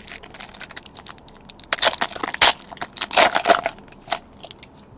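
Trading-card pack wrapper being torn open and crinkled by hand: a run of crackling and ripping, loudest in two spells in the middle, dying away after about four seconds.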